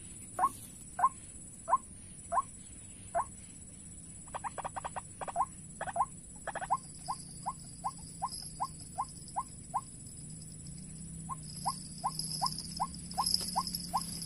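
White-breasted waterhen 'ruak' calls: short rising notes repeated about three times a second, with a short pause near the middle. This is the waterhen lure call used to draw the birds to the snares. A quick run of rattling clicks comes about four seconds in, and a steady high hiss grows from about halfway.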